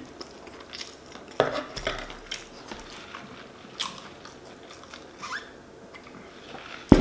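Close-up biting and chewing of a shrimp po'boy sandwich, with scattered crunches and small mouth clicks; a sharper crunch comes about a second and a half in.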